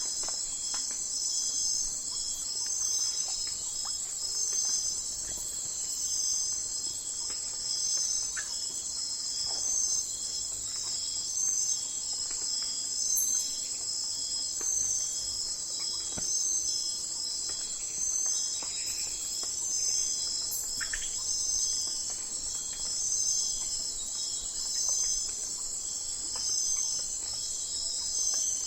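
Night insect chorus of crickets trilling continuously and high-pitched, swelling in a regular pulse about every two seconds, with a few faint short chirps underneath.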